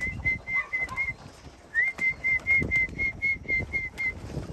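A person whistling a quick run of short, high, repeated notes, about four a second, to call homing pigeons into the loft. The whistling breaks off about a second in and starts again with a rising note shortly after.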